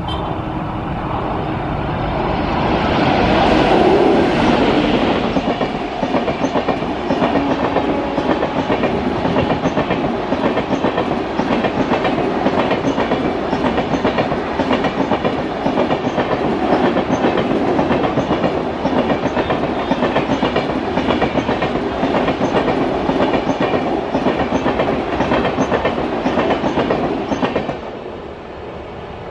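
Passenger train behind an electric locomotive passing at speed. The locomotive's pass swells to its loudest about four seconds in. The coaches' wheels then clatter over the rail joints in a steady, rapid clickety-clack until the last coach goes by and the sound drops away near the end.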